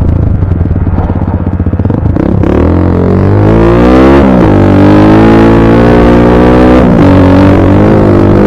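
Dirt bike engine accelerating, very loud and close: its pitch climbs, drops at a gear change about four seconds in, then climbs again.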